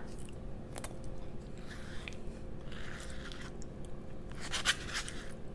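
Close-miked eating sounds: soft chewing with a few short crunchy bites, the loudest a little before the end.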